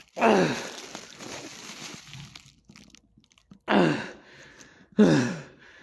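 Three short, loud wordless cries from a man's voice, each dropping in pitch, about a quarter second, three and a half seconds and five seconds in.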